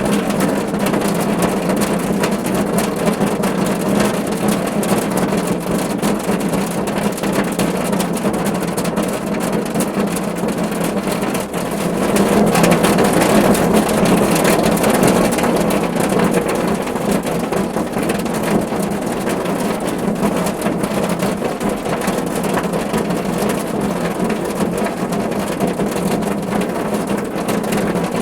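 Rain falling steadily on a car roof, an even patter that swells louder for a few seconds around halfway through.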